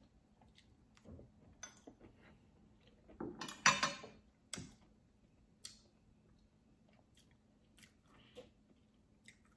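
A person chewing a mouthful of crispy battered fried mushrooms: soft crunches and small scattered clicks, loudest about three to four seconds in.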